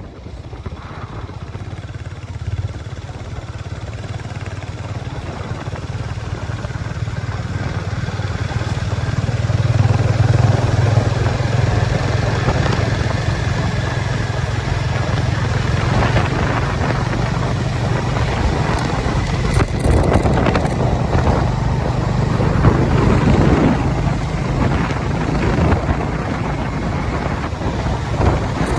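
Harley-Davidson X440's single-cylinder engine running while the motorcycle is ridden, with wind noise over it; the engine gets louder about ten seconds in.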